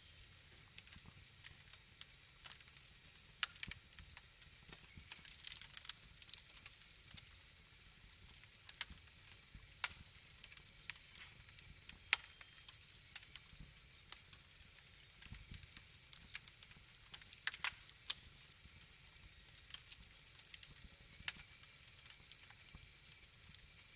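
Wood fire crackling: irregular sharp pops and snaps, scattered unevenly, over a faint steady hiss.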